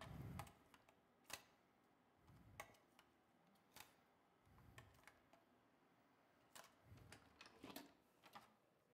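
Near silence: faint room tone with a dozen or so scattered soft clicks and a few dull low thumps, unevenly spaced.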